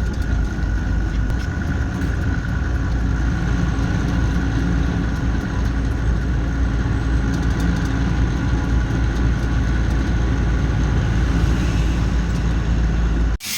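Lorry's diesel engine running steadily while driving, a low drone with a faint steady whine above it, cutting off suddenly near the end.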